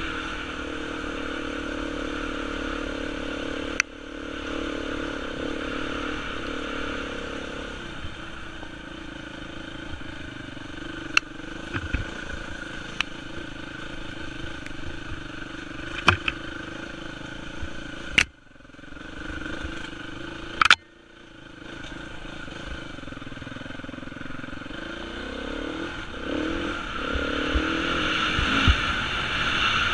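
Beta 350 four-stroke enduro motorcycle engine running under the rider on a dirt trail, revving up and down with the throttle, with scattered sharp clicks and clatter. The engine note drops away briefly twice around the middle and rises with harder revving near the end.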